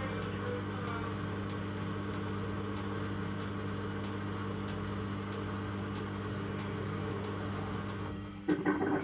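Logik L814WM16 washing machine running with a steady mechanical hum and faint regular ticking: the horrible grinding sound its owner complains of. Near the end comes a brief, louder burst.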